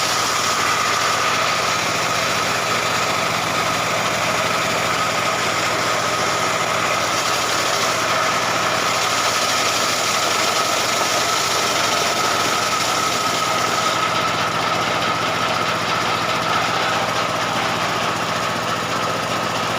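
Stihl 070 two-stroke chainsaw running steadily at high speed, ripping lengthwise through a jackfruit-wood beam. Its high noise eases slightly about fourteen seconds in.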